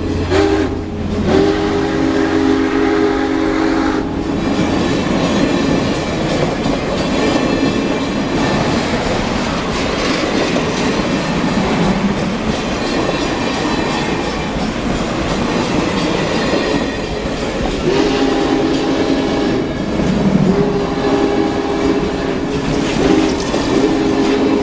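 Union Pacific Big Boy No. 4014 steam train passing, its chime whistle blowing in several long blasts for the first few seconds and again for the last several seconds. In between, the rolling noise of the locomotive and cars going by, with clickety-clack of wheels on rail joints.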